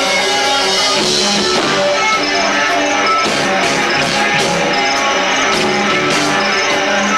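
Live rock band playing loud with electric guitar, bass and drums, cymbal hits cutting through, heard as a lo-fi camcorder recording.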